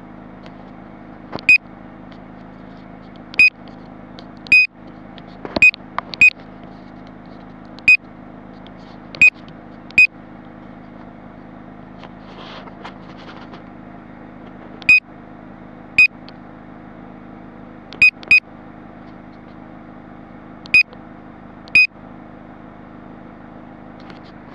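2016 Mazda MX-5 Miata's 2.0-litre four-cylinder idling steadily through its factory exhaust. Over a dozen short, sharp, high-pitched chirps come at irregular intervals and are the loudest sounds.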